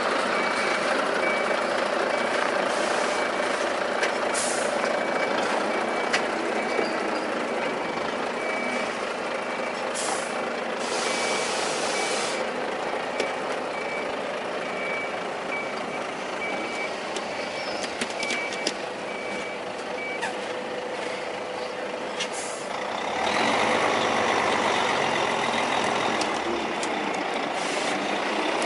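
Heavy truck running, with a reversing alarm beeping at an even pace until about two-thirds of the way through. Loud air-brake hisses come around 4 s and again twice around 10 to 12 s. The engine grows louder near the end.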